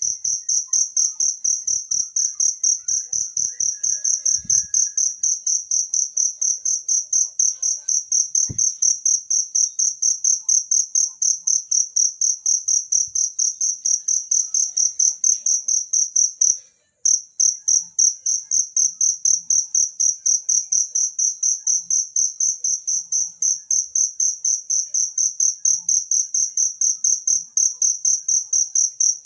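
Cricket chirping in a fast, even pulse of about four chirps a second, a single high-pitched tone with a fainter higher overtone. It cuts out briefly once, a little past the middle.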